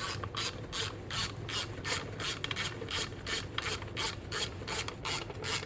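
Hand ratchet and socket running bolts into a turbo compressor housing: an even run of short rasping ratchet clicks, about three to four a second, one with each back-swing of the handle.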